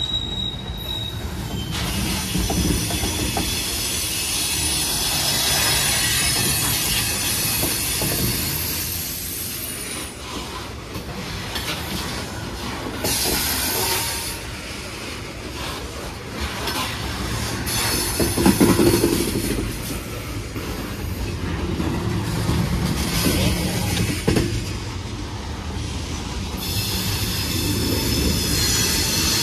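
Coal train's rapid-discharge hopper cars rolling past close by, a steady rumble of steel wheels on rail. High-pitched wheel squeal comes and goes over it.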